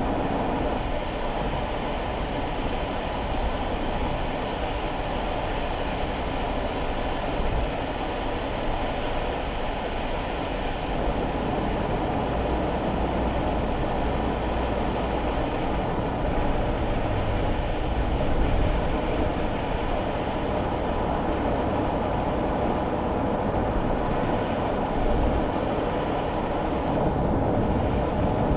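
Steady road noise inside a kei car's cabin while driving on wet roads: a low tyre and engine rumble with no sudden events.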